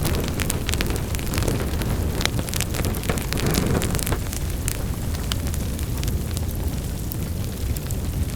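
Wood fire burning in a fireplace: a steady low rumble of flames with many small sharp crackles and pops, busier in the first half and thinning out later.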